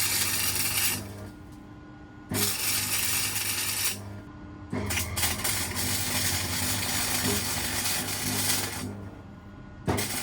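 Electric welder tacking steel tube, running in bursts of one to four seconds with short pauses between, a steady low hum under each burst.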